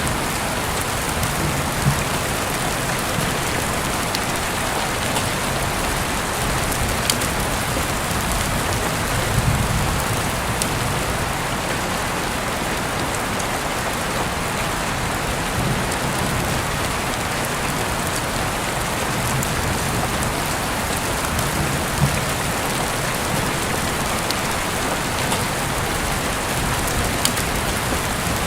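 Steady heavy rain falling on a surface, an even dense hiss. A few sharp ticks are scattered through it, and a low rumble swells up now and then.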